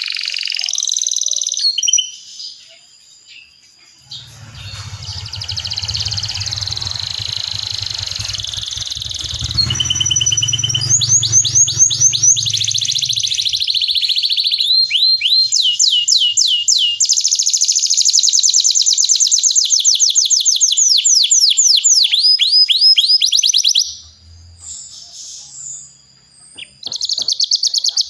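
Domestic canary singing long rolling trills: runs of fast, repeated rising notes, with short pauses about two seconds in and near the end. A low steady hum sits under the song in the first half.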